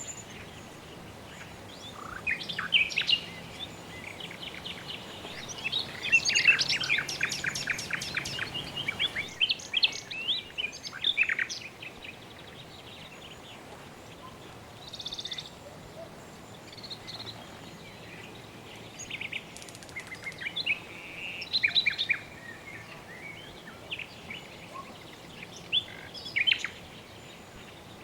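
Birds chirping and calling over a steady background hiss, several calls overlapping, with a burst of rapid trilling about six seconds in that lasts about three seconds.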